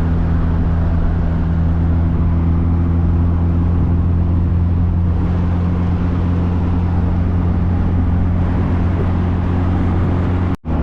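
Car engine and road noise heard from inside the cabin while cruising at a steady speed: an even low hum with a constant drone and tyre rumble. It is broken by a very short, sudden gap near the end.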